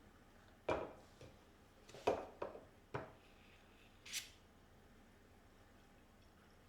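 Objects being handled: about five short knocks and clatters, then a brief hiss about four seconds in.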